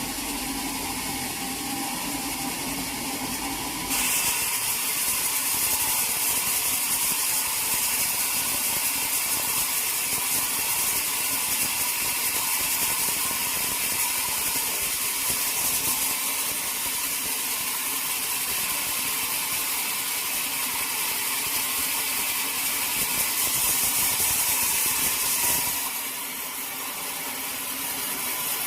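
Sawmill machinery running steadily; about four seconds in a bright, high-pitched hiss sets in on top of it, typical of a saw cutting, and eases off near the end.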